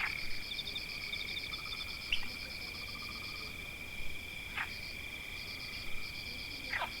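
Forest chorus of trilling insects and frogs: one steady high buzz with fast pulsing trills above it. Three short calls sweep downward in pitch over it, about two seconds apart.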